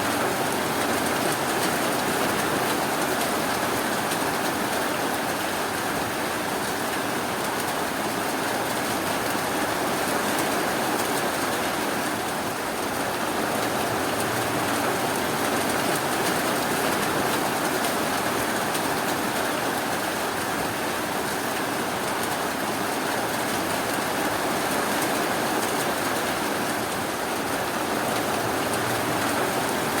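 Steady rainfall, an even hiss of rain without distinct drops or pauses.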